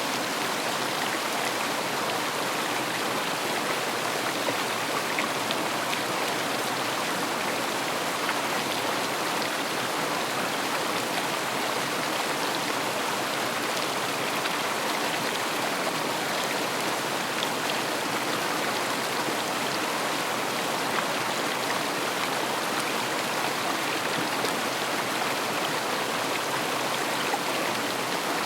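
A river running steadily over rocks: a continuous rushing and babbling of flowing water.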